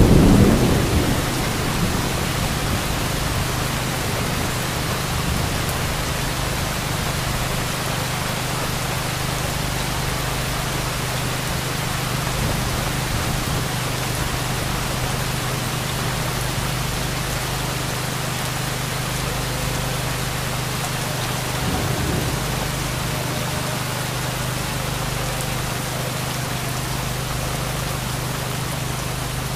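Heavy rain falling steadily, an even hiss. The tail of a low thunder rumble dies away in the first second.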